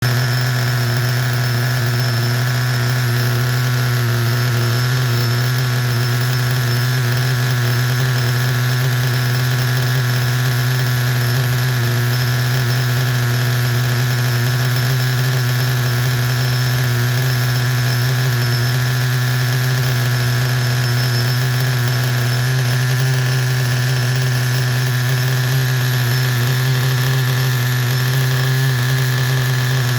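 Mugen MV12 nitro RC car engine idling steadily on its first tank of fuel during break-in, holding one even pitch with no revving.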